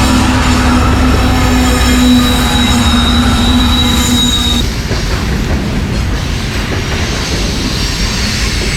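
A train passing close by: a loud, continuous rumble of wheels on the rails, with a steady tone over it that stops about halfway through.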